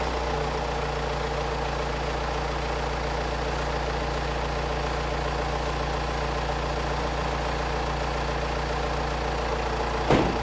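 Hyundai Maxcruz 2.2-litre four-cylinder diesel engine idling steadily. There is a brief thump about ten seconds in.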